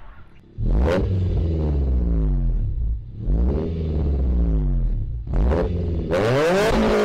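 Car engine accelerating, its pitch swelling up and back down in three waves over a steady low drone. It starts about half a second in and dips briefly about three and five seconds in.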